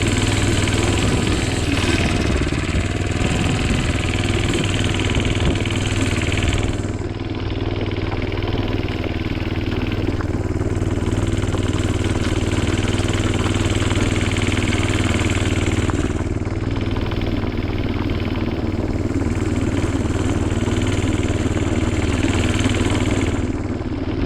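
Minibike's small engine running steadily under throttle, with a high hiss that fades out about 7 seconds in and again about 16 seconds in, then returns each time.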